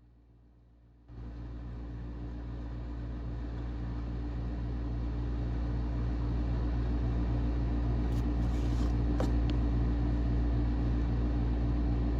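Heavy rain pouring down with a deep, steady rumble underneath. It starts suddenly about a second in and slowly grows louder.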